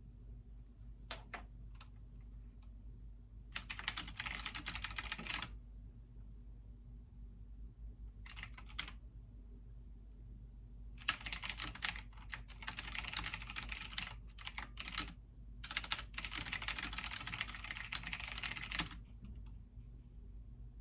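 Computer keyboard typing in bursts: a few single key clicks, then runs of rapid keystrokes lasting from under a second to about four seconds, with short pauses between them.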